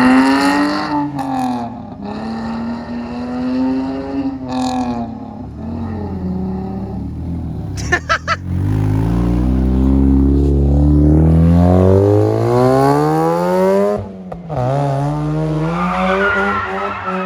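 A car engine revving hard during a slide, its pitch climbing and falling again and again as the driver shifts and lifts off, with tires squealing. There are a few sharp pops about eight seconds in, and the engine cuts out briefly near the end before climbing again.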